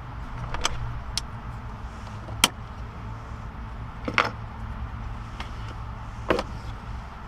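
A handful of sharp clicks and two short scrapes, the loudest click about two and a half seconds in: hand tools working screws out of the plastic trim of a car's center console. A steady low hum runs underneath.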